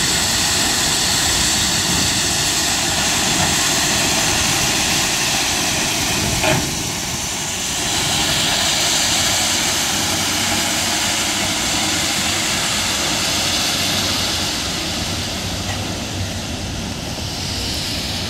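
BNSF freight train of ballast hopper cars rolling slowly past: a steady rushing noise of wheels on the rails, with a short sharp metallic sound about six and a half seconds in.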